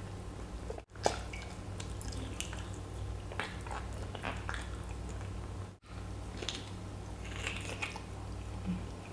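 Close-miked chewing of braised oxtail mechado meat: soft, wet, sticky mouth sounds and scattered smacks as she bites the meat off the bone, over a low steady hum.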